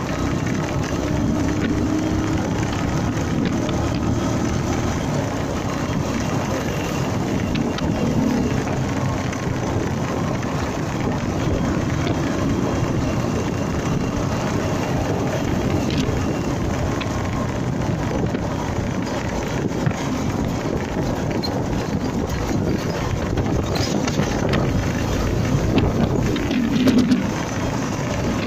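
Steady wind rushing over the microphone and road noise of a Honda MegaPro Primus motorcycle under way, its engine running underneath, with a few brief ticks.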